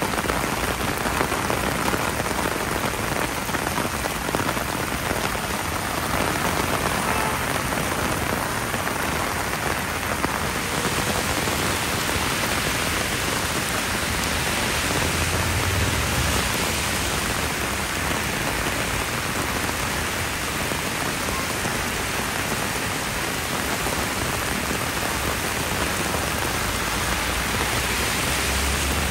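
Heavy downpour: a steady, dense hiss of rain pouring onto the road and surrounding surfaces.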